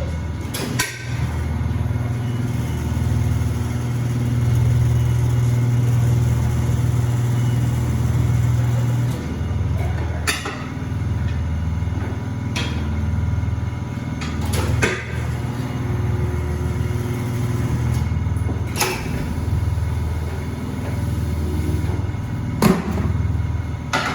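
Tire-shop machinery running with a steady low hum, louder for several seconds early in the stretch. Sharp knocks or taps stand out over it about six times, a few seconds apart.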